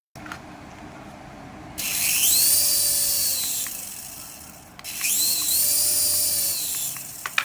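A small electric motor of a remote-control toy spinning up to a high whine, holding, and winding down, twice, with a click near the end.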